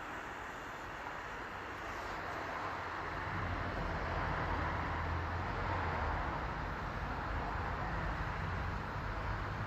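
A park-railway train running: a steady rushing noise, with a low engine hum that grows louder about three seconds in.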